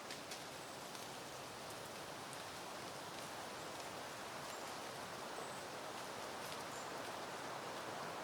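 Steady wind rustling through foliage and flowers, slowly swelling, with a few faint ticks and some brief, faint high peeps.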